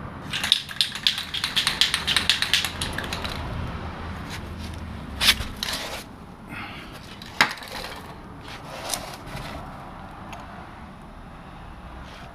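Aerosol can of WD-40 white lithium grease shaken, its mixing ball rattling rapidly for about three seconds. Then come a short hiss of spray and a few sharp clicks of handling.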